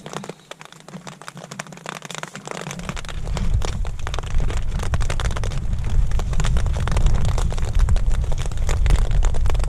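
Storm rain pattering hard on a tent's fabric. About three seconds in, a deep rumble of thunder builds and stays heavy under the rain.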